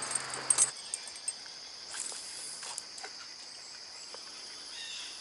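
Rustling with a few sharp snaps and cracks in the first second, as of brush and twigs being pushed through, then a steady high-pitched insect chorus with scattered faint clicks.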